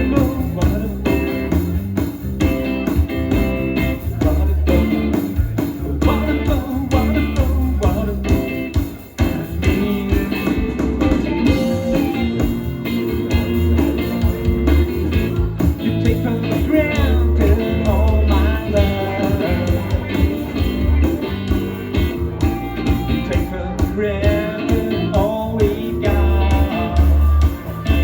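Live rock band playing a guitar-led song with a heavy, steady bass beat; pitched lines bend up and down over it in the middle and near the end.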